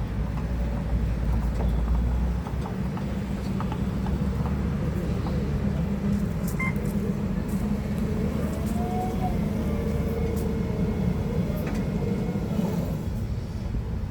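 Stand-up forklift in operation: a steady low machine hum with scattered clicks and knocks, and a brief whine that rises and falls about nine seconds in.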